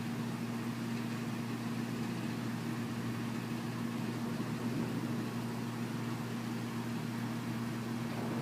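A steady low hum with an even faint hiss behind it, unchanging throughout.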